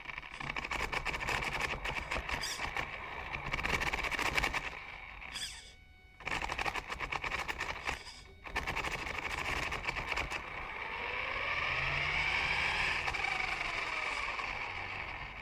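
1/10-scale RC trophy truck's electric motor and drivetrain heard from on board, with a steady high whine over a dense rattling as it drives, dropping out briefly twice. Near the end the rattle eases and the motor whine rises and falls in pitch as the truck speeds up and slows.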